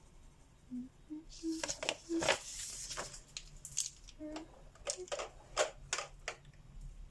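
Colouring pencils on paper and on a tabletop: a stretch of scratchy shading strokes, then a run of sharp clicks and taps as pencils are handled and set down. A few faint short squeaks sound between them.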